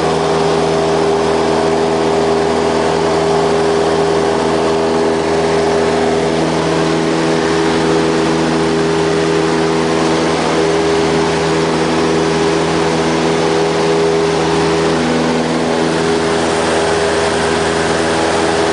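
Light aircraft's piston engine and propeller running steadily at an unchanging power setting.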